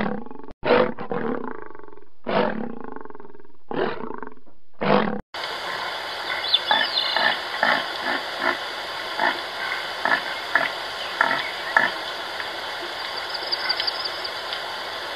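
Lion roaring: a series of deep, loud roars about a second apart, ending about five seconds in. Then a sudden switch to a different recording: a steady hiss with a run of short calls, set against a herd of red deer.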